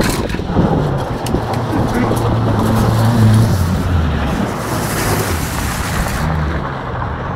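A banger car's engine revving hard as the car spins and slides on a loose dirt yard, the pitch climbing and then dropping back about halfway through, over a constant rush of tyres scrabbling on gravel. There is a sharp knock at the very start.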